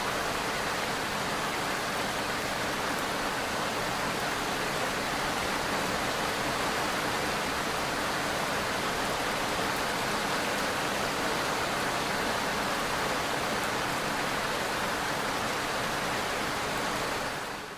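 Steady, even rushing noise with no distinct events, a rain-like masking track with the character of pink noise. It fades down briefly at the very end.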